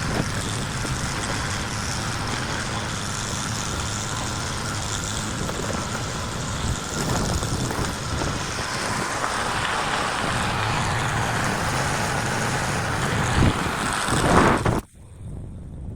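A steady rumbling noise like a running engine, which drops away suddenly near the end.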